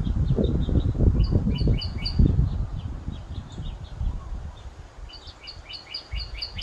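A small songbird calling in two quick runs of short chirps, one about a second in and another near the end. Underneath is a louder, uneven low rumble.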